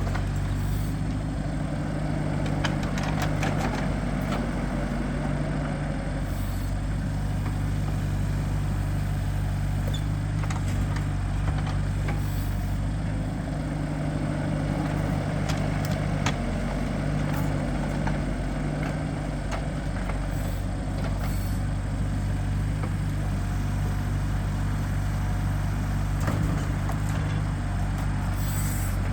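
A truck engine running steadily at an even speed, with a few short knocks and clicks over it.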